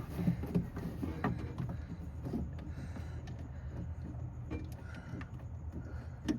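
Scattered small clicks and knocks of hands working battery cables and a fastener onto a master kill switch, over a steady low hum.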